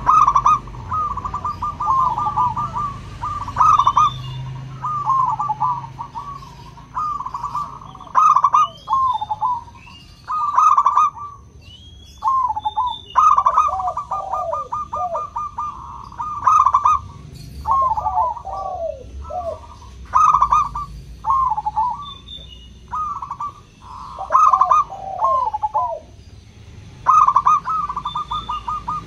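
Zebra dove (perkutut) cooing: repeated rolling phrases of quick notes, often ending in short falling notes, one phrase every two to three seconds.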